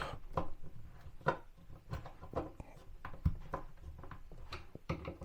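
Scattered light knocks and clicks of kitchen wall cabinet parts and fittings being handled and moved, with the loudest knock a little past three seconds in.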